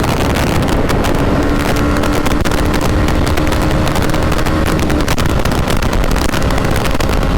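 Heavy wind noise buffeting the microphone on a moving motorcycle, with a Yamaha YZF-R125's single-cylinder four-stroke engine running underneath. Its note holds steady for a few seconds, then fades into the wind.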